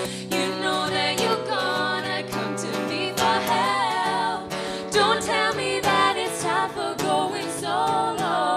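Female vocal trio singing wordless harmonies over a steady instrumental backing, the voices holding and bending sustained notes.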